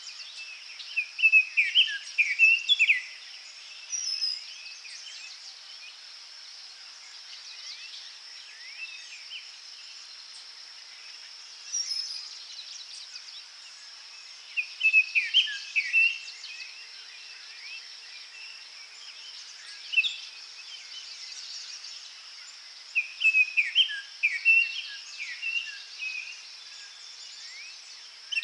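Forest ambience: a songbird sings three short phrases of quick, falling notes, about ten seconds apart, with a few single chirps between. Under it runs a steady high-pitched insect drone.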